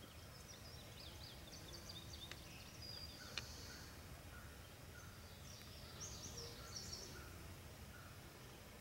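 Faint outdoor quiet with small songbirds calling: two runs of quick high chirps, one early and one later, and a couple of light clicks in between.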